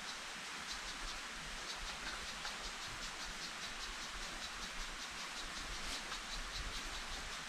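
Insects chirping in a fast, even pulse, several chirps a second, over a steady hiss of forest background noise.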